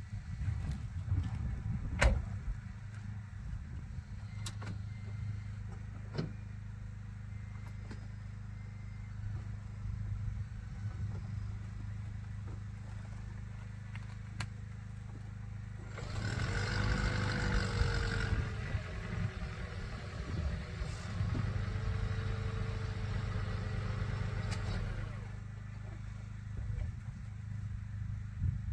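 2010 Toyota Prius being driven down off its ramps: a steady low hum with a few knocks early on, then a louder stretch of running noise about halfway through that lasts several seconds.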